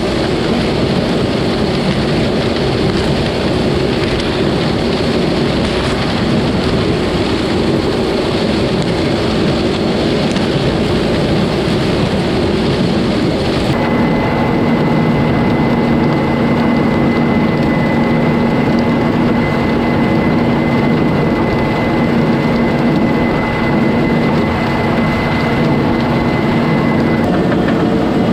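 Combine harvester running steadily while picking corn. About halfway through, a steady high whine joins the machine noise and lasts until near the end.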